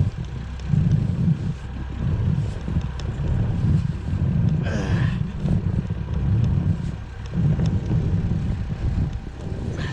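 Tractor engine running under load, a low drone that rises and falls every second or so. One short call is heard about halfway through.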